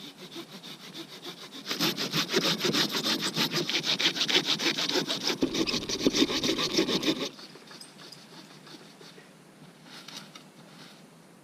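Fast, even rasping strokes, several a second, growing loud about two seconds in and stopping abruptly a little past seven seconds.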